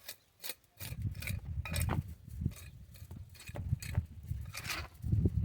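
Hand trowel scraping and tapping in wet concrete: a run of short scrapes and clicks, over a low rumble that starts about a second in.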